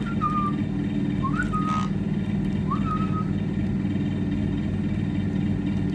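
A person whistles three short calls, each sliding up and then held briefly, about a second and a half apart. Under the whistles a steady low mechanical hum runs throughout.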